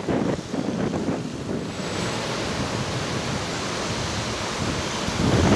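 Storm-force wind gusting and buffeting the microphone with a rumbling rush of noise. It swells into a stronger gust near the end.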